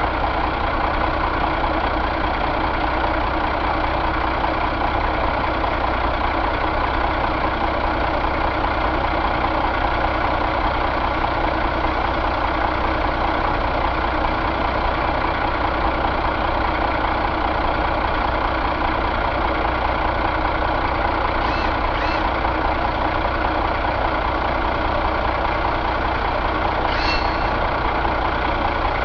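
Caterpillar C12 inline-six diesel engine idling steadily at an even speed. Two faint clicks come about three-quarters of the way in, and another near the end.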